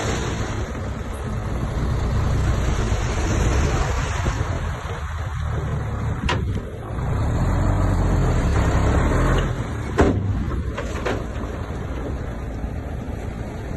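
Heavy diesel construction machinery running steadily, its engine note swelling and easing, with a few sharp knocks of metal or stone about halfway through and near ten seconds in.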